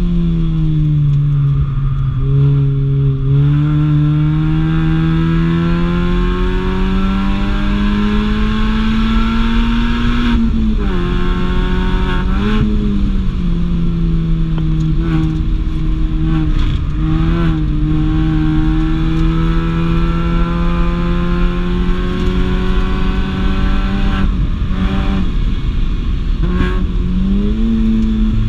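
Mini Cooper engine under hard driving on a race track, its pitch climbing slowly through long pulls, then dropping and jumping back quickly several times in the second half as the driver shifts or lifts and blips the throttle.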